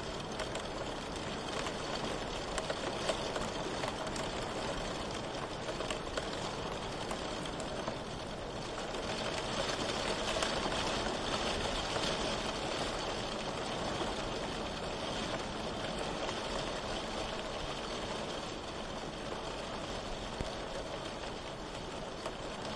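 Steady rain falling, with a few faint drop ticks, growing slightly heavier for a few seconds about ten seconds in.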